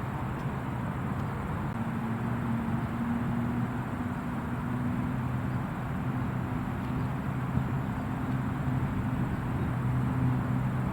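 A steady low engine hum under a constant rushing noise, unchanging throughout.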